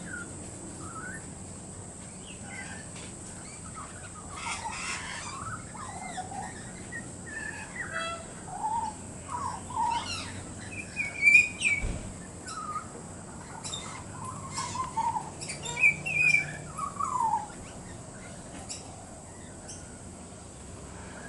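Young pied butcherbird fledgling warbling a rambling string of short rising and falling notes mixed with clicks, practising its song. The notes stop a few seconds before the end.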